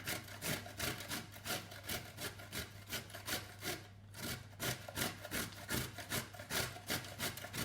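Raw carrots being grated on a hand grater: rhythmic rasping strokes, about two to three a second.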